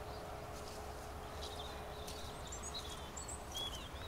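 Small birds chirping in short calls several times, over a steady low background rumble.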